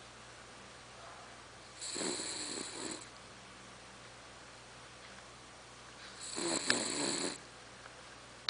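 Sleeping poodle snoring: two snores about four seconds apart, each lasting a little over a second, the second with a sharp click in it.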